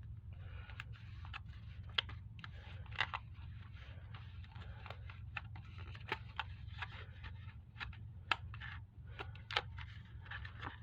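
Hands closing up a food container: irregular crinkling, taps and scrapes, over a steady low hum.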